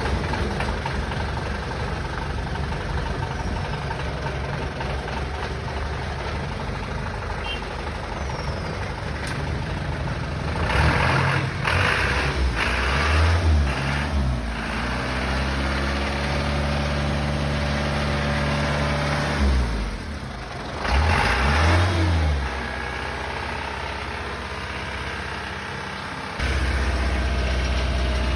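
Dodge M37 army truck's engine running, revved up twice with the pitch climbing and falling back, then settling to a steady run; the low rumble steps up sharply near the end.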